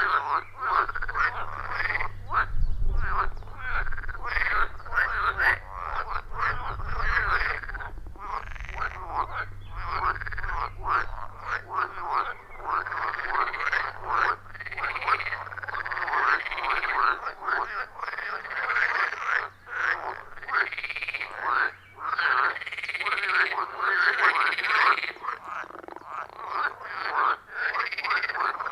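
A dense chorus of many frogs calling at a pond, their croaks overlapping without a break and swelling and ebbing in groups of calls.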